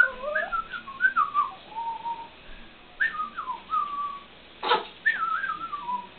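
Whistling in short wavering phrases that step down in pitch, with a sharp click about three quarters of the way through.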